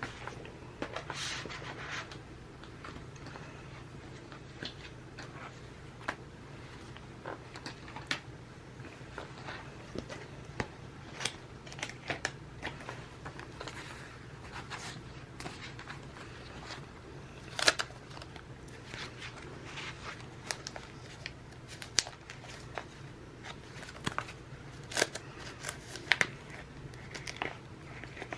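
Paper and plastic being handled at a desk: scattered light clicks, taps and short rustles from planner pages, sticker sheets and clear plastic inserts, one sharper click about two thirds of the way in, over a faint steady hum.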